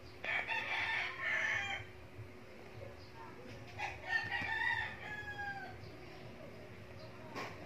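A bird calling twice, each call about a second and a half long, the second one falling off at its end; a short knock near the end.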